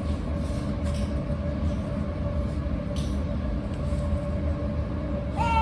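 Steady low background rumble and hum with a faint constant tone, from an unseen machine or appliance; a faint click about three seconds in, and a falling, baby-like coo starts just at the end.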